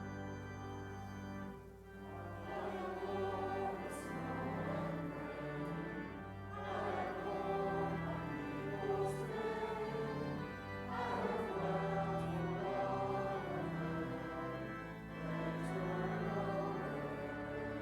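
A choir singing over held low accompanying notes, in phrases separated by short breaks.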